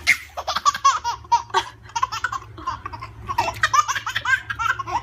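A baby laughing in a run of short, high-pitched bursts, with a brief lull midway before laughing again.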